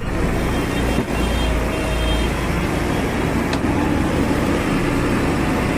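Heavy diesel machinery running steadily with a deep rumble that eases after about two and a half seconds, and a sharp knock about a second in.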